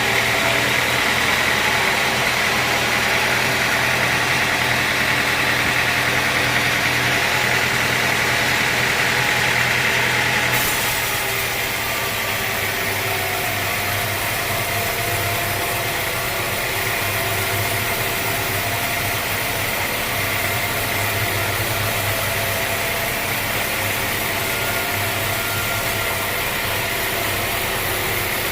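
Sawmill machinery running with a steady engine-like drone. The sound changes abruptly about ten seconds in and then carries on just as steadily.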